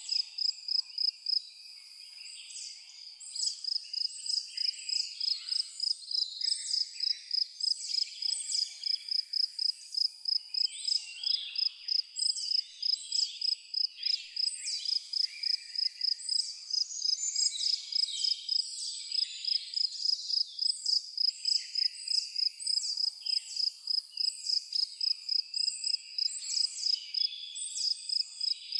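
Crickets chirping in a steady, rapid pulsing rhythm, with many birds singing and calling in short chirps over them.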